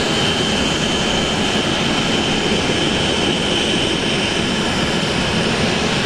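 Jet aircraft engine running steadily: a loud, even rush with a high whine held at one pitch.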